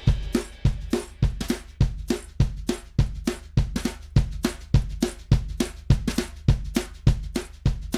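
Recorded drum-kit groove on a drum bus: kick, snare, hi-hat and cymbals in a steady beat, with strong hits a little under twice a second, as processed through a compressor and EQ plugin.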